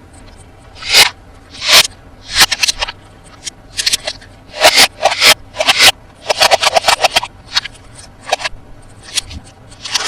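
Toy packaging being handled and opened: irregular scraping and crinkling bursts, with a quick flurry of crackles about six seconds in.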